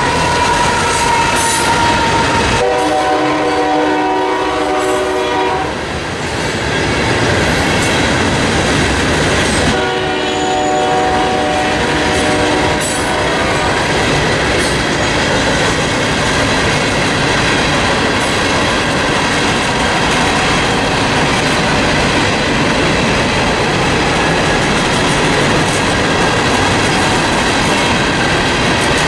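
Union Pacific ballast train passing close by. A locomotive horn sounds a chord in two long blasts of about 3 seconds each, the first starting about 2.5 seconds in and the second about 10 seconds in. Through the rest, a string of Herzog ballast hopper cars rolls past with a steady rumble and wheel clatter.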